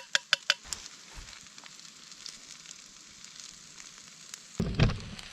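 Fish cakes and beans sizzling in a frying pan over a campfire, a steady hiss. In the first second there is a quick run of sharp metallic taps, about six a second. A louder thud-like sound comes near the end.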